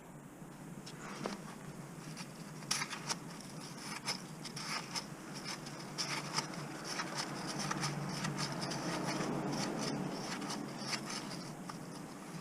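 Irregular light clicks and scraping from hand work, over a steady low hum.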